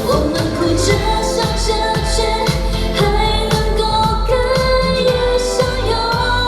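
Chinese pop song performed live: a woman singing a melody over a steady drum beat and bass backing track.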